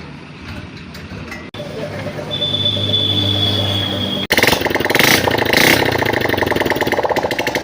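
Honda Dream 110 single-cylinder four-stroke motorcycle engine running just after a full rebuild with a new crankset and standard piston, in several short cuts; about four seconds in it becomes much louder with a fast, even firing rhythm.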